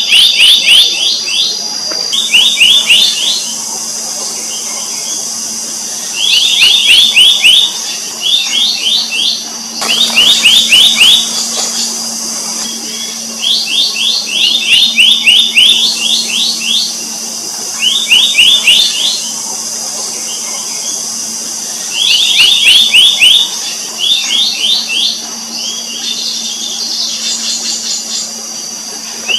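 Black-naped monarch calling over and over: quick runs of rising whistled notes, each run about a second long, repeated every few seconds. A steady high drone and a low hum run underneath.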